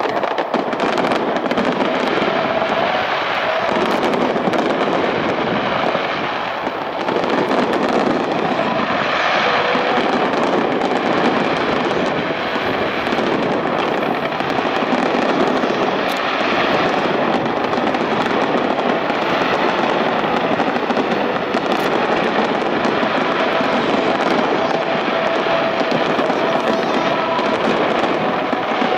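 Fireworks finale barrage: many shells and ground-level fan-shaped mines going off together in an unbroken stream of crackling and popping, with no pause.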